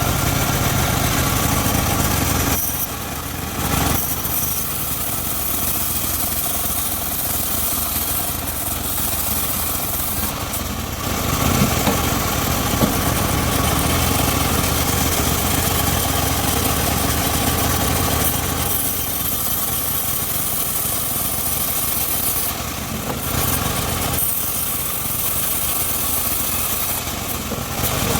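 Engine of a homemade circular sawmill running continuously as it rips teak logs. The level dips briefly a few times.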